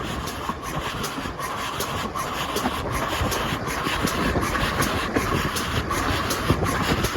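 Heritage railway train running, a steady rumble and rattle that slowly grows louder.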